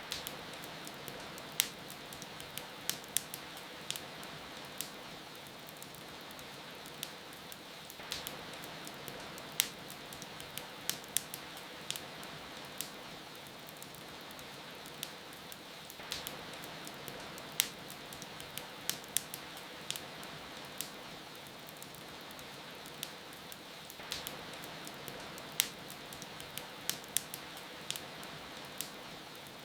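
Wood fire crackling, with irregular sharp pops and snaps, over a steady hiss of falling rain.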